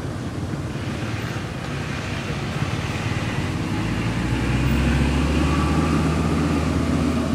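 A motor vehicle's engine running, growing louder about halfway through as it draws near.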